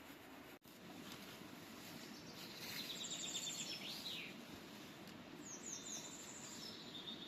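Faint wild birdsong over a steady outdoor hiss: a quick repeated trill about a third of the way through, then a few short down-slurred chirps near the end. The sound cuts out completely for an instant just over half a second in.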